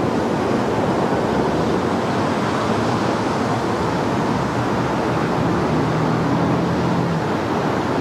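Steady noisy rumble of a train passing close by, with a faint diesel engine hum underneath.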